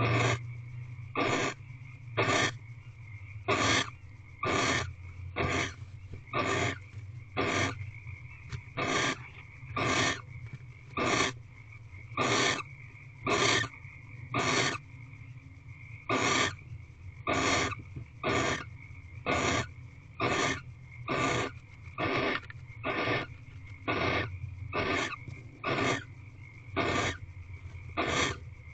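Female barn owl giving harsh, hissing rasps, the barn owl's 'snoring' call, repeated about once a second with a brief pause midway. A steady low hum runs underneath.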